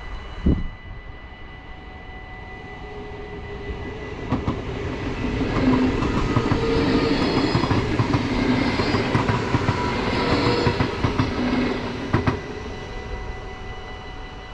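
NS passenger train passing over a level crossing: wheel-on-rail noise builds from about four seconds in, is loudest in the middle, and falls away after about twelve seconds, with sharp clicks as wheels cross rail joints near the start and end of the pass.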